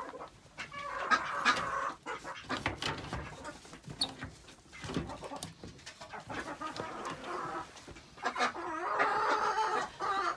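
Hens clucking, with a longer run of clucking about a second in and again near the end, among scattered knocks.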